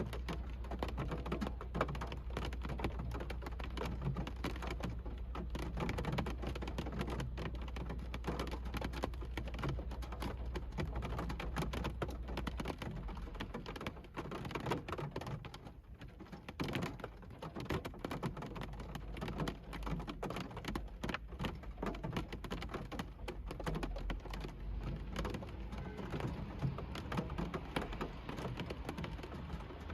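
Rain drumming on a car's roof and windshield, heard from inside the cabin as a dense, steady patter of drops, thinning briefly about halfway through. A low steady hum runs underneath and drops away near the middle.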